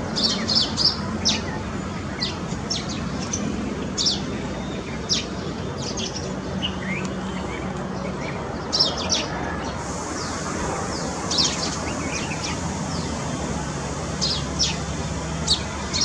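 Indian white-eyes giving short, high, thin chirps, scattered in small clusters, over a steady low background hum.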